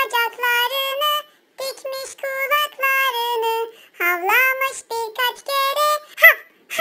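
High, pitched-up, synthetic-sounding voice singing a children's song over music, with a rising swoop in pitch about four seconds in.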